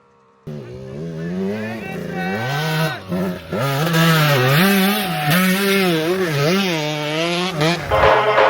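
A 125cc two-stroke motocross bike engine revving up and down as it is ridden, cutting in suddenly about half a second in. Music takes over near the end.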